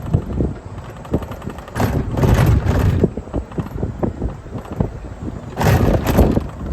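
Wind buffeting the microphone: a low, gusty rumble with two strong gusts, about two seconds in and again near six seconds.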